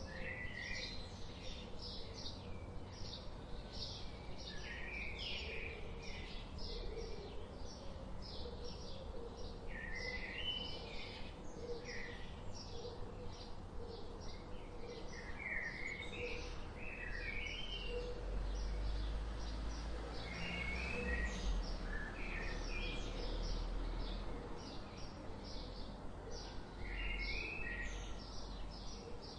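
Several birds chirping and calling continuously, in quick short chirps and repeated warbling phrases, over a steady outdoor background hum. A low rumble swells in the middle and fades out again.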